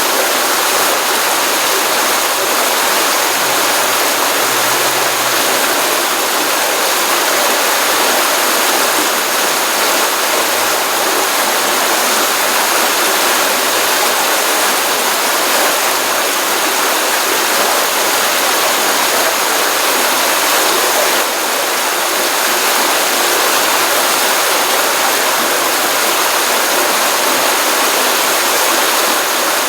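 Stream water running steadily over rocks, a continuous rushing and splashing from a pond outflow after rain.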